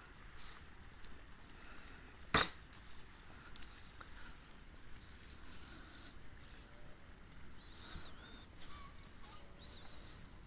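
Faint background noise with a few short, high bird chirps in the second half, and one sharp click about two seconds in, the loudest sound.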